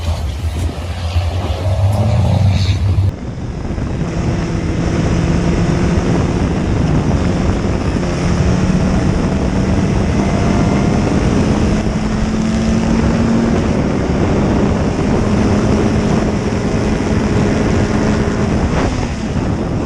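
Racing engine running hard at high revs over a loud rushing noise, its pitch holding and then slowly climbing. The sound changes abruptly about three seconds in from a lower hum to this engine note.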